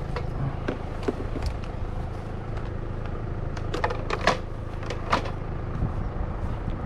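A few short, sharp knocks and clatters of hard objects being handled, the loudest about four and five seconds in, over a steady low rumble.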